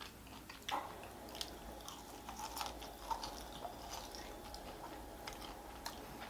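A person chewing food close to the microphone, faint, with many small scattered clicks.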